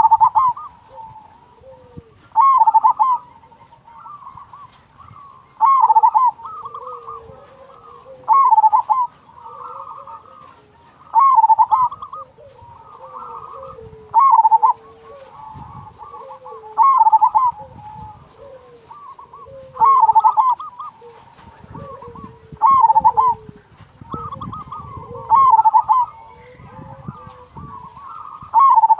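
Zebra doves (perkutut) cooing: a loud trilling coo phrase repeats about every three seconds, with softer, lower coos in between.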